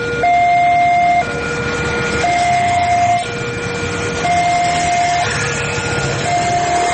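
Railroad level crossing warning alarm sounding: an electronic two-tone signal, a higher and a lower note alternating about once a second, warning that a train is approaching. A low rumble runs underneath.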